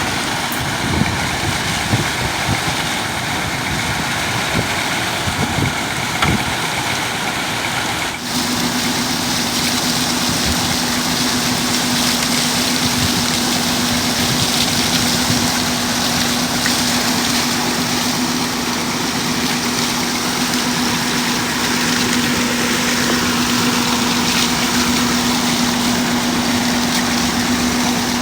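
Massey Ferguson 240 tractor's three-cylinder diesel engine running steadily while driving a water-lifting system. A few knocks sound in the first seconds; about eight seconds in the sound changes abruptly to an even run with a constant low hum.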